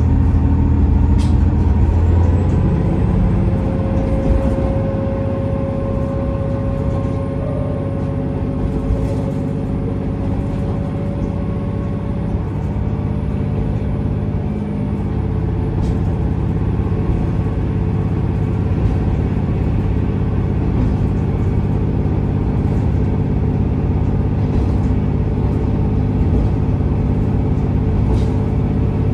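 A KiHa 47 diesel railcar running, its engine and the wheels on the rails heard from inside the carriage. The engine note changes about two seconds in, then the running stays steady, with a few sharp clicks along the way.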